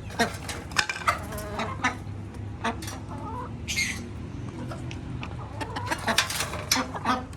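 Domestic hens clucking in a run of short calls, with a brief shrill high call about four seconds in, over a steady low hum.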